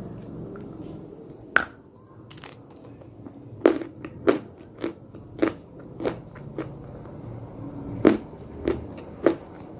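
A piece of slate bitten off with one sharp snap, then chewed in regular crisp crunches a little under two a second, with a short pause partway through.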